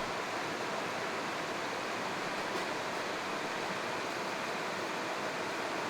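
Steady rushing of flowing creek water, an even, unbroken sound.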